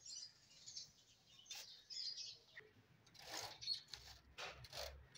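Faint, scattered short chirps from small birds, mixed with a few brief swishes of a paintbrush dragged along the wooden cage frame and its wire mesh.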